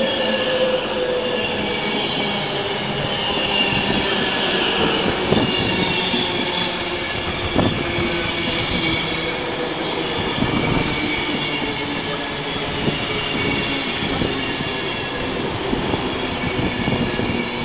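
British Rail Class 390 Pendolino electric train running along the platform and braking to a stop. Its drive whines down in pitch at the start, a high squeal runs over the rumble of the coaches, and there are a couple of short knocks partway through.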